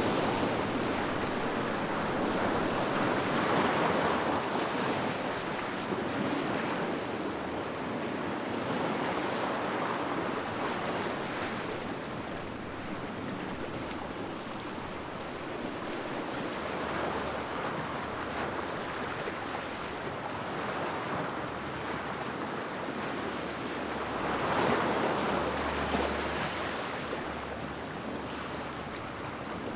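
Sea waves breaking and washing in, the surf swelling and fading with a louder wave every six or seven seconds.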